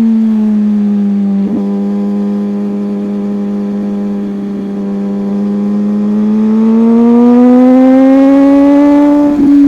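Motorcycle engine running under way. Its note eases down slightly and softens, then climbs steadily in pitch and loudness from about halfway through as the throttle is opened.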